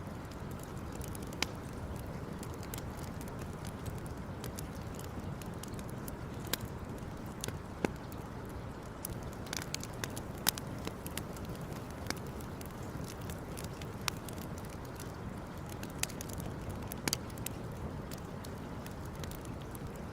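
Campfire crackling: scattered sharp pops and snaps, a few of them louder, over a steady low rumble.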